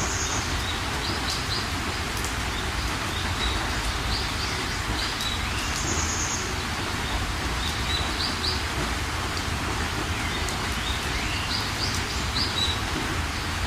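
Steady rain falling, with birds calling over it: short chirps in quick runs of three or four, and a higher buzzy call that comes back about every six seconds.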